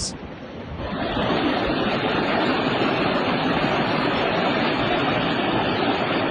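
Floodwater rushing: a steady, even rushing noise that swells up over the first second and then holds.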